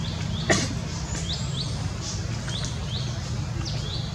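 Birds chirping over and over, several short falling chirps a second, over a steady low rumble. About half a second in comes one brief, loud, sharp sound.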